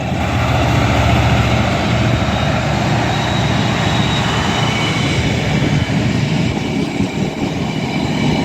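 Freight train passing behind Class 66 diesel locomotive 66687, its wagons' wheels rumbling steadily over the rails. A faint thin high whine of wheel squeal comes in from about the middle.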